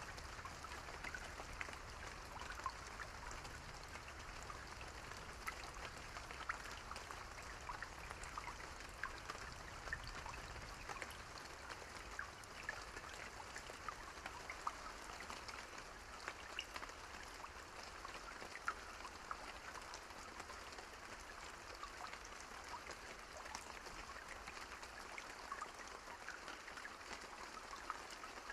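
Steady rain falling, with many individual drops clicking sharply over an even hiss. No thunder.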